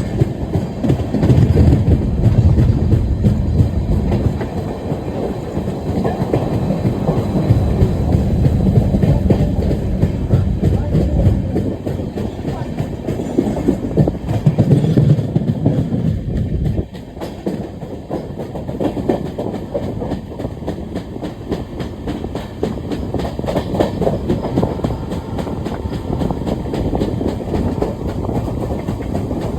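Moving Indian Railways passenger train: a steady rumble with the clatter of wheels on the track, which drops suddenly to a lower level about seventeen seconds in.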